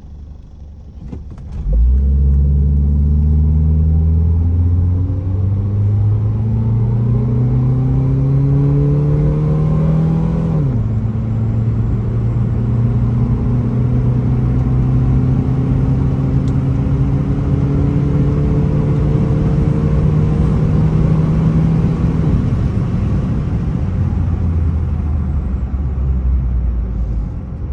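Renault Twingo engine accelerating hard from a standstill. The revs climb, drop sharply about ten seconds in at a gear change, then climb slowly again. Near the end the engine tone fades, leaving a steady rush of road and wind noise.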